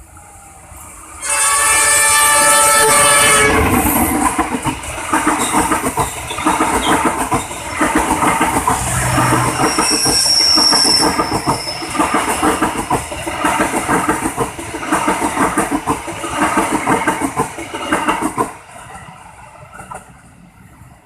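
A locomotive horn sounds for about two and a half seconds, then a passenger train runs past close by, its wheels clattering rhythmically over the rail joints. The clatter drops away suddenly about eighteen seconds in.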